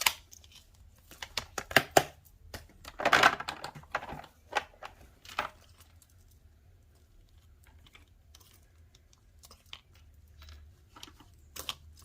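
Small taps and clicks of crafting by hand: a stamp being inked in black and pressed onto card to stamp a bird's eyes. The taps come thick in the first half, with a brief louder rustle about three seconds in, then only a few faint ticks.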